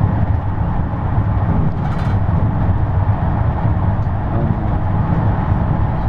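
Steady low rumble of road and engine noise inside a moving vehicle's cabin, with a short click about two seconds in.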